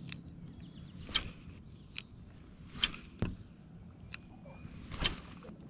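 Kayak paddle strokes: a series of sharp splashes and knocks about once a second as the blades dip into the water.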